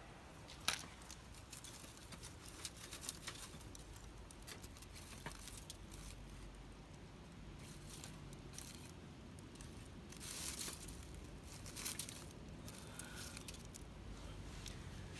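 Wood fire in a fire pit crackling, with irregular sharp pops, one louder pop about a second in, and a short hiss about two-thirds of the way through.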